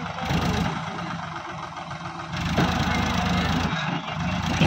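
Sonalika DI 750 tractor's diesel engine running under a broad rushing noise. It gets a little louder about halfway through.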